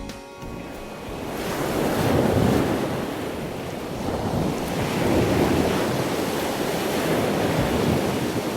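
Ocean surf: waves washing in, the rushing noise rising about a second in and then swelling and easing in slow surges.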